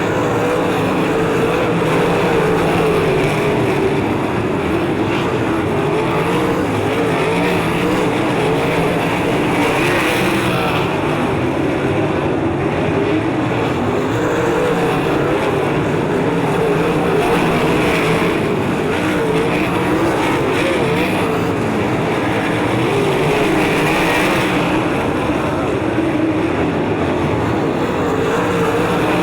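A field of 360 sprint cars racing together, their V8 engines running hard and swelling now and then as the pack goes by.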